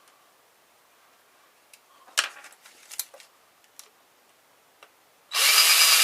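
A few light clicks and knocks of small parts being handled. Near the end a power drill-driver spins up loudly and runs steadily, backing a screw out of the car stereo's metal casing.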